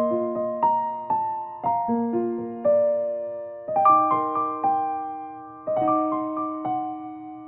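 Background piano music: a slow, gentle piece with sustained chords struck about every two seconds and single melody notes between them.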